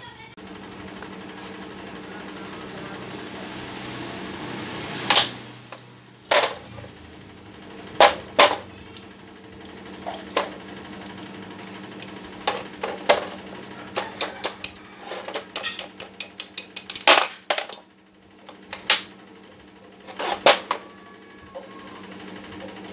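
Sharp metallic taps and clicks from hand tools on the air impact wrench, some single knocks and some quick runs of clicks, over a steady low hum.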